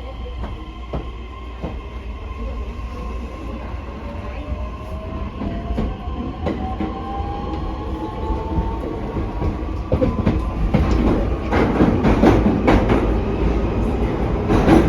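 E131 series electric train running, heard on board: the traction motor whine rises steadily in pitch as the train accelerates away. From about ten seconds in, the rolling noise grows louder, with wheels knocking over rail joints.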